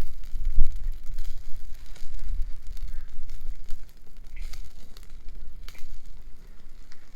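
Wood bonfire crackling, with scattered sharp pops, over a strong, uneven low rumble.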